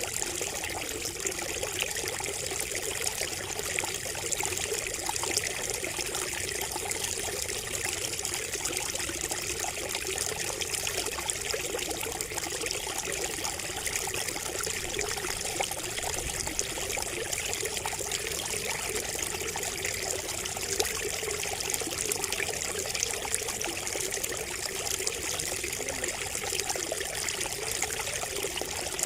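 Water trickling steadily from a bamboo spout, an even, unbroken babble.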